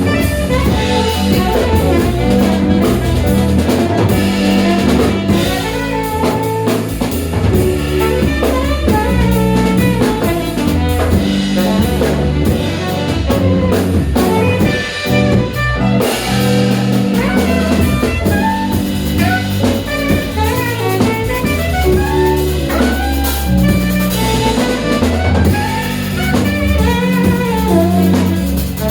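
Small jazz band playing an instrumental cover: alto saxophone on the melody over drum kit, guitar and keyboard, with a steady groove throughout.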